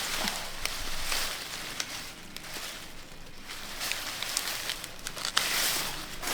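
Rustling of leaves and plant stems being handled, in waves with scattered small snaps and ticks.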